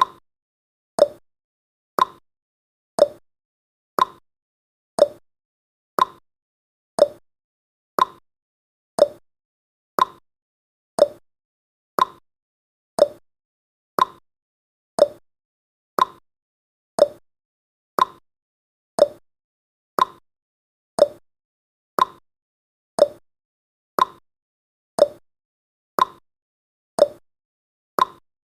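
Clock-style ticking sound effect, one short sharp tick every second, counting down the timer.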